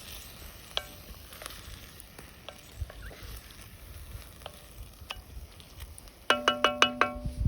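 Pot of chili heating over a campfire, with a faint sizzle and scattered sharp crackles. About a second before the end comes a quick run of about ten ringing metallic clinks, a metal spoon stirring and knocking against the pot.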